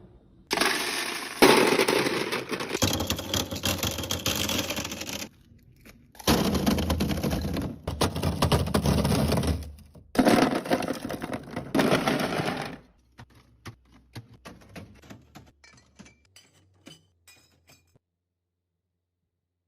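Plastic packaging being handled, with three long stretches of loud crackling and crinkling. These give way to a run of light clicks and taps.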